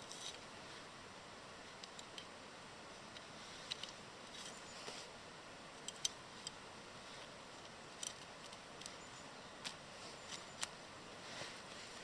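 Sparse, irregular light clicks and clinks of small hard objects being handled, over a faint steady hiss; the sharpest is a quick pair about six seconds in.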